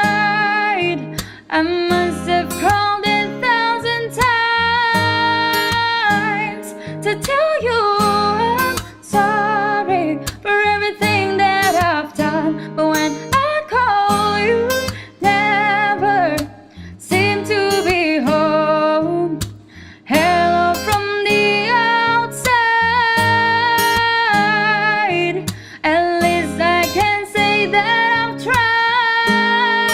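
A woman singing a melody with vibrato over a plucked and strummed acoustic guitar.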